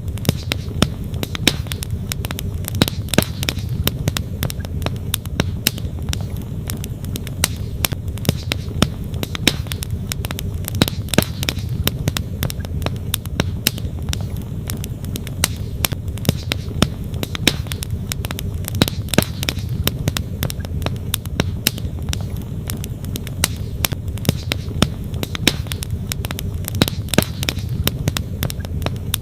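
Wood campfire crackling, with frequent irregular sharp pops and snaps from the burning logs, over a steady low rush of flowing creek water.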